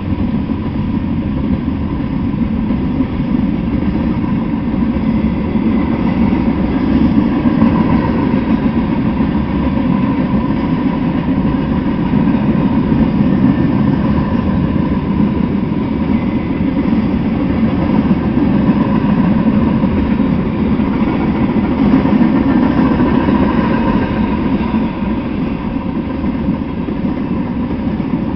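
Freight train cars rolling past, a steady rumble of wheels on the rails that keeps up without a break.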